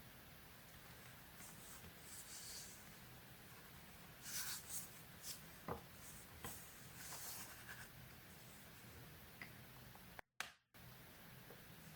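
Faint paper-crafting sounds: paper rustling and scratching on a work surface, with several short brushing strokes about four to five seconds in and again around seven seconds, and a few small clicks. The sound cuts out for a split second near the end.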